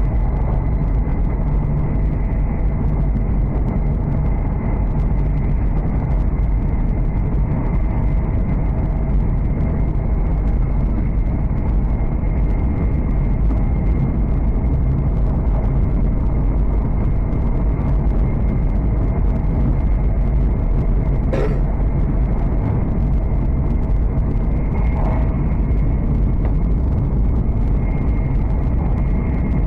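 Steady rumble of a Hokuriku Shinkansen train running at speed, heard from inside the passenger cabin, with a faint steady high tone over it and a single click about twenty-one seconds in.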